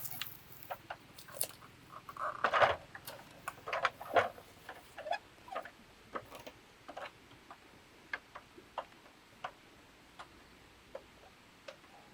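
A run of short, irregular taps and clicks, close together at first and thinning to single ticks in the second half.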